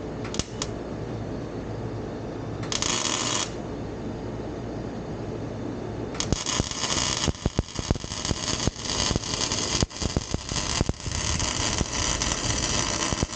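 Welding arc crackling on exhaust pipe: a short tack about three seconds in, then a longer weld from about six seconds on, laid in short runs with brief breaks.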